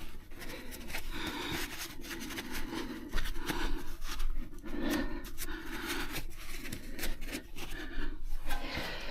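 Repeated rubbing and scraping strokes with scattered sharp clicks, from hand-tool work on brake parts.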